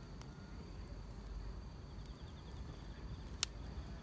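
Grass insects (crickets) trilling steadily over the low rumble of a wood fire, with one sharp crackle from the burning firewood about three and a half seconds in.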